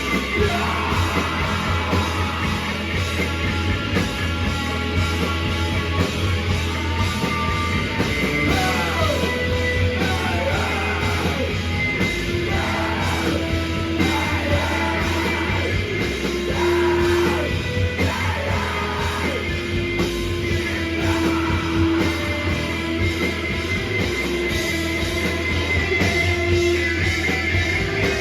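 A rock band playing live, with a singer over loud, continuous guitars, bass and drums.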